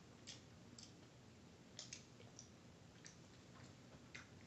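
Near silence with faint, scattered wet mouth clicks of someone chewing a sticky, chewy caramel toffee, about eight short clicks in all.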